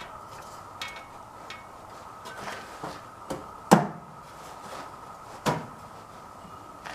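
A length of 2x2 lumber being knocked up into place as a support under a tractor's battery box: a series of wooden knocks, the loudest a little before four seconds in and another about five and a half seconds in.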